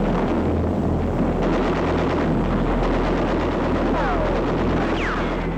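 Battle soundtrack of a wartime scene: a dense, steady rumbling din with gunfire and falling whistles, one about four seconds in and another about five seconds in.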